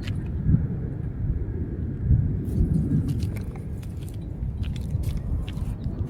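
Low, uneven rumble of wind on the microphone, with scattered light clicks and taps as the broken parts of a crashed foam RC plane are handled.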